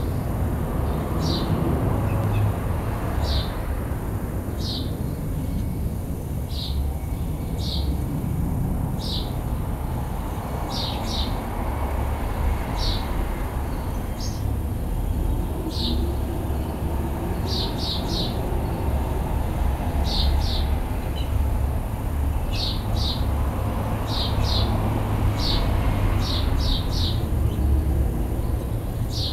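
A small bird chirping over and over, short high chirps about once a second, sometimes two or three close together, over a steady low rumble of background noise.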